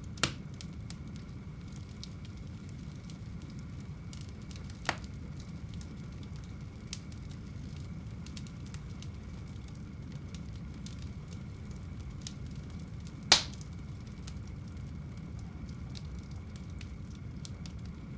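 Wood fire burning in a home fireplace: a steady low rumble of flames with light crackling and three sharp pops, the loudest near the middle of the second half.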